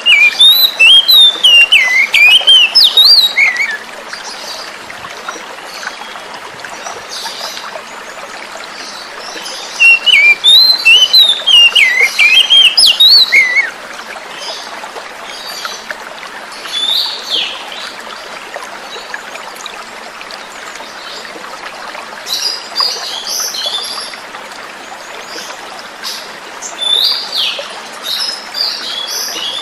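Oriental magpie-robin singing over steadily running water: two loud runs of rapid, varied whistled notes, the first at the start and the second about ten seconds in, each lasting about four seconds, then softer scattered calls.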